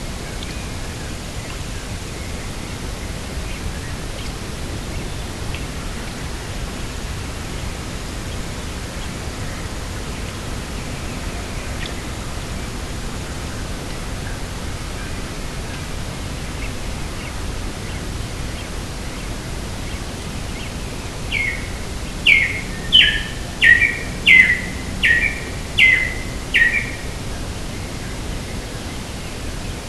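Steady rushing wind, with a bird giving a run of about eight loud, sharp calls, each falling in pitch, a few seconds before the end.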